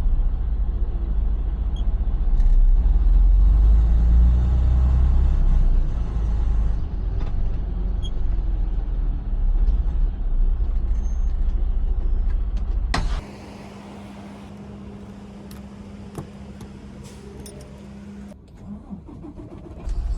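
Semi-truck diesel engine running with a steady low rumble, heard from inside the cab. About 13 seconds in, a sharp knock is followed by a much quieter steady hum, and the rumble comes back near the end.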